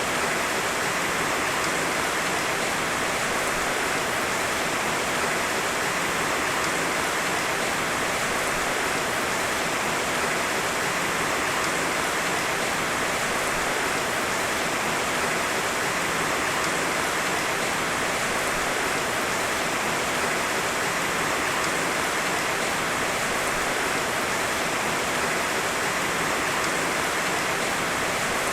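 Heavy rain falling steadily, an even hiss of dense drops without thunder.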